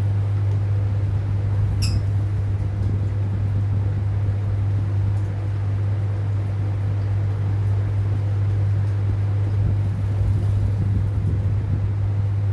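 A steady low hum with a faint noisy hiss over it. A single short, high lovebird chirp comes about two seconds in.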